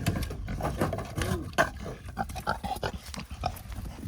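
Farm animals calling: a run of short, irregular calls and noises.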